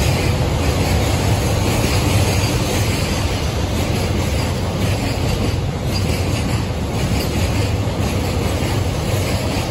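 Freight train wagons rolling past close by at a steady speed: a continuous heavy rumble of steel wheels on the rails.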